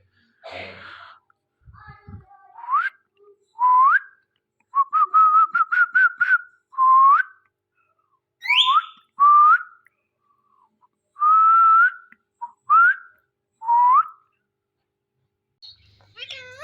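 Rose-ringed (ringneck) parakeet whistling: a string of short clear notes, each sweeping upward, with a quick run of rapid repeated notes partway through.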